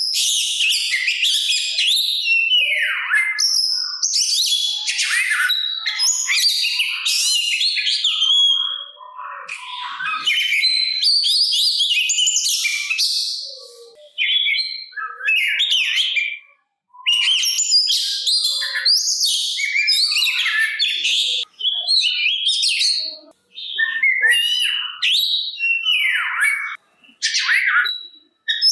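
Oriental magpie-robin (kacer) singing a long, rapid run of varied whistles, trills and quick up- and down-sweeping notes, with a few short pauses between phrases.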